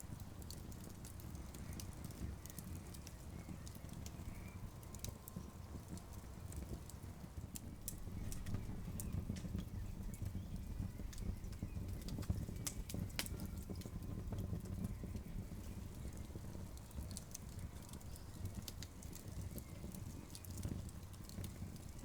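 Campfire of burning wood crackling, with scattered sharp pops and snaps over a low steady rumble, and a busier run of pops about halfway through.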